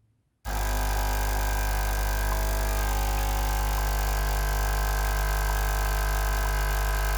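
Nespresso Citiz's vibratory water pump switching on about half a second in and running with a steady, loud buzzing hum as it pumps water through the machine. The previously stuck pump is working again after its repair.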